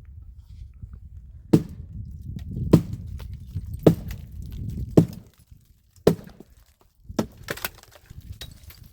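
Firewood being chopped: five sharp blows about a second apart, then a quicker run of lighter cracks and knocks near the end.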